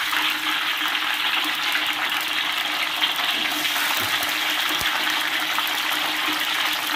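Green beans sizzling steadily in hot oil in a wok, freshly added, with a fine crackle throughout.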